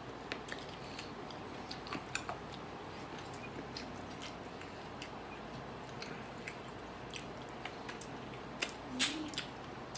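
Close eating sounds of a man chewing and biting grilled chicken eaten by hand: scattered small clicks and smacks from the mouth, more of them near the end.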